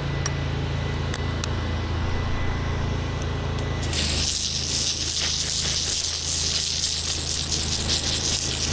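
Pressure washer's engine running steadily, then about four seconds in the spray kicks on with a sudden loud, steady hiss of high-pressure water.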